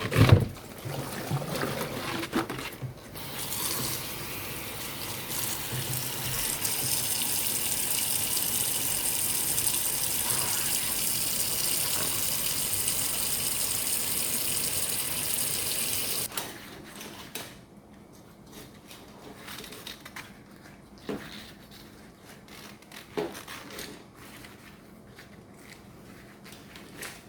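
Water running steadily from a tap for about thirteen seconds, then turned off suddenly. A knock right at the start and a few light knocks afterwards.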